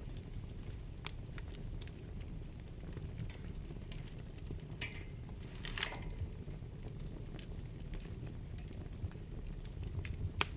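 Wood fire burning in a fireplace: a steady low rumble of flames with scattered sharp crackles and pops, a brief hiss about five seconds in and another about six seconds in, and a loud pop near the end.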